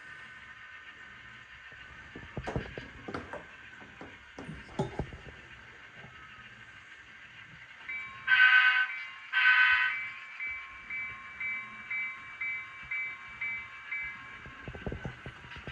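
Model diesel locomotive's sound decoder playing a running diesel engine sound, with a few sharp clicks early on, then two horn blasts about eight seconds in, followed by a bell dinging about twice a second for several seconds.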